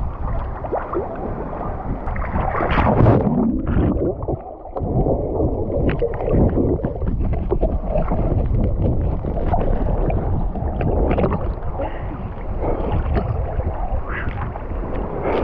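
Sea water sloshing and lapping close to the microphone in shallow water, with wind buffeting the microphone.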